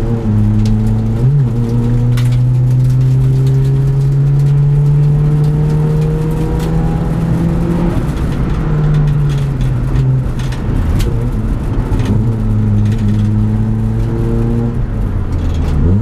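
A rally sprint car's engine heard from inside its stripped cabin, pulling hard with the revs rising slowly for several seconds, dropping about halfway through, then building again near the end. A few sharp clicks and knocks cut through the engine noise.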